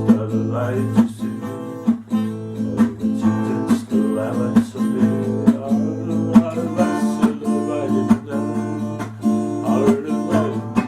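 Acoustic guitar being strummed in an improvised instrumental piece, chords ringing with a steady rhythm of about two strokes a second.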